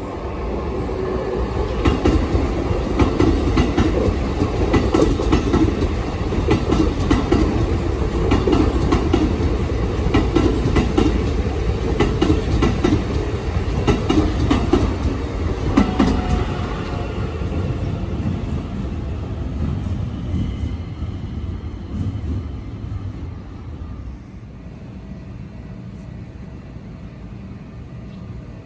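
Keikyu 2100-series electric train running through the station, its wheels clattering rhythmically over the rail joints. The noise fades after about 16 seconds and drops to a quiet hum after about 24 seconds.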